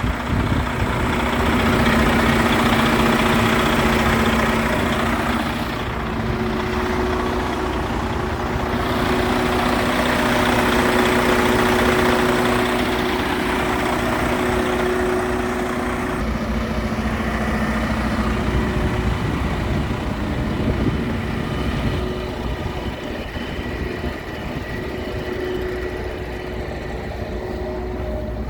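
Western Star W4700 hydro vac truck running at idle: a steady engine hum with two constant tones over a broad rushing sound that swells and eases a few times.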